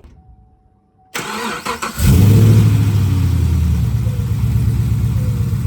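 2014 Chevy Camaro SS 6.2-litre V8 with headers being started: the starter cranks briefly about a second in, the engine catches with a loud flare a second later and settles into a steady idle. It is the first start after a cooling system vacuum fill and valve cover gasket replacement.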